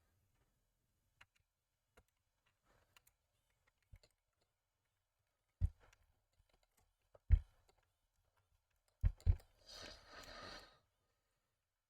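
Faint clicks and four short knocks from small tools and metal model parts being handled on a workbench, then about a second of scraping hiss near the end.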